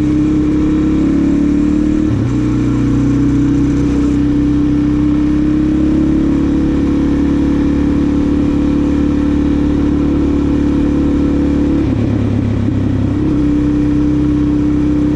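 Suzuki DR-Z400SM single-cylinder four-stroke engine and exhaust pulling under way. The engine note climbs slowly, with a shift in pitch about two seconds in and another near the end that sound like gear changes.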